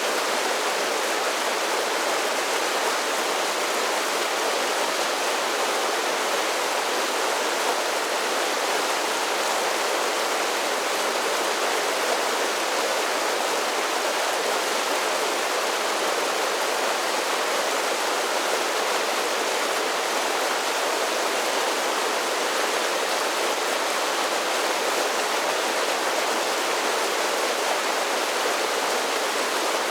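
Mountain creek cascading down a series of small falls: a steady, unbroken rush of water, mostly a bright hiss with little low rumble.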